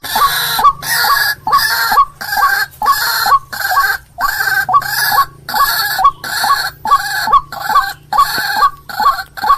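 White-breasted waterhen calling: a harsh, croaking call repeated over and over at about two and a half calls a second, each with a sharp clucking note.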